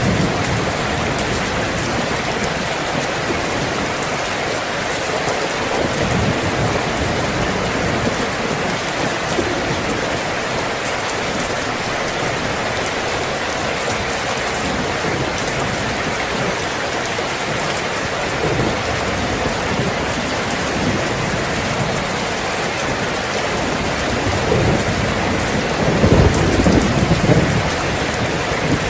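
Steady rain falling, a dense even hiss of drops, with a low roll of thunder swelling up near the end.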